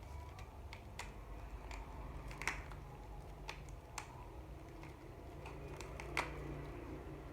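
Small objects being handled: irregular light clicks and taps, the two sharpest about two and a half and six seconds in, over a low steady hum.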